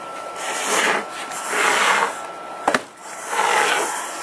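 A heavy AV receiver being turned around on a surface: three scraping, rubbing swells as its casing slides, with a sharp knock about two-thirds of the way through.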